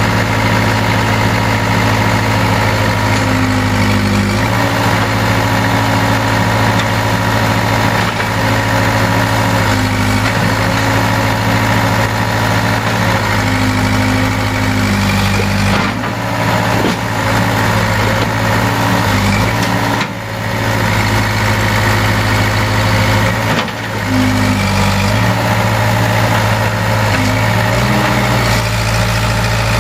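Case 580K backhoe's four-cylinder diesel engine running steadily at a low speed. Its note dips and shifts briefly several times, with two short drops in level about two-thirds of the way through.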